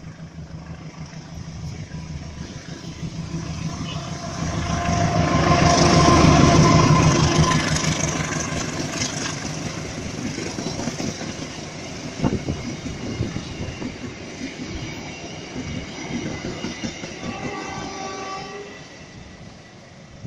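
Diesel locomotive-hauled passenger train passing close by. The engine and wheel rumble swell to a peak about six seconds in, then the carriages rattle past with rapid wheel clicks over the rail joints. A horn chord sounds around the peak and again briefly near the end.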